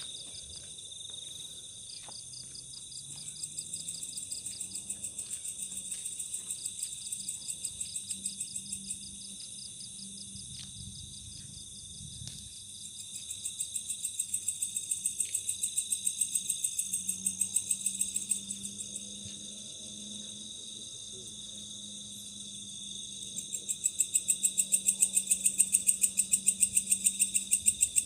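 Night insect chorus: crickets chirring steadily, with a louder insect calling in rapid pulses, about four a second, in three long bouts, the last one the loudest.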